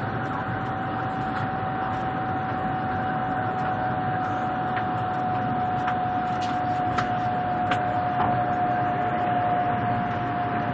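Inside a bullet train's carriage at speed: a steady rushing noise with one constant whine held through it, sagging very slightly in pitch toward the end.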